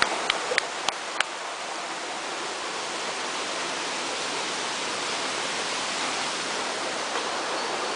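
Waterfall: a steady rush of falling water, with a quick run of five sharp clicks in the first second or so.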